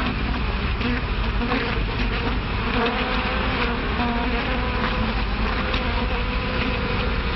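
Steady buzzing drone of bees, a sound effect on an early sound-film track, its pitch shifting slightly now and then over a background hiss.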